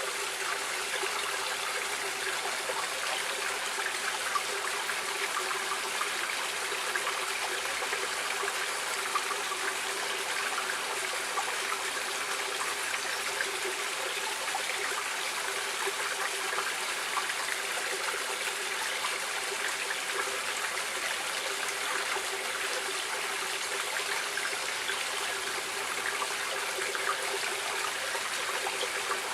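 Running water of a stream, a steady, even rush that does not change.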